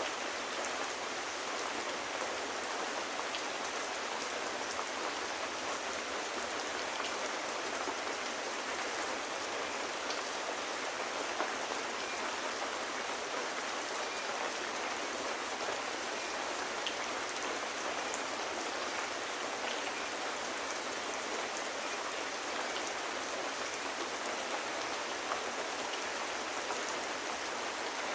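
Steady rain falling on hard surfaces: an even, unbroken hiss with faint scattered drop ticks.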